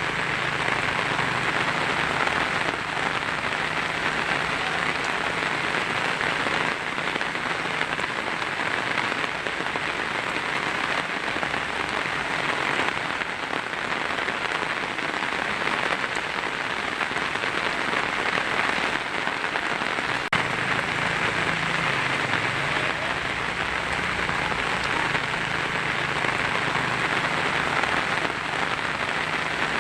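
Heavy rain drumming steadily on a tin roof, with a faint low rumble underneath at the start and again about two-thirds of the way through.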